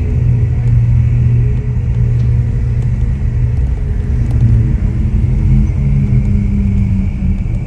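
Ferrari 488 Pista's twin-turbo V8, fitted with a Ryft exhaust, running at low, fairly steady revs with a deep steady drone; the pitch rises slightly a little past halfway.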